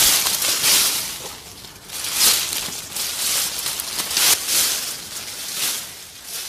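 Rustling, crunching leaves, a sound effect that swells and fades about once a second.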